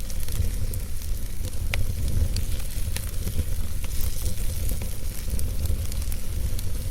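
Wood fire burning in a fireplace: frequent small, irregular crackles and pops of the logs over a steady low rumble of the flames.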